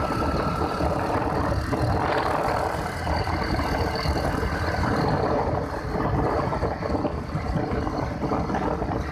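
Motorcycle being ridden along a road: steady engine and road noise, a rushing haze with no breaks.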